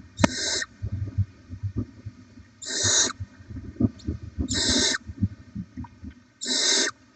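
Barn owls giving harsh hissing screech calls: four rasping bursts of about half a second each, roughly two seconds apart, with soft knocks and scuffling in the nest box between them.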